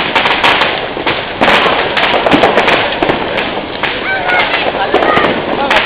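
Bonfire that has just caught, burning with dense, irregular crackling and popping.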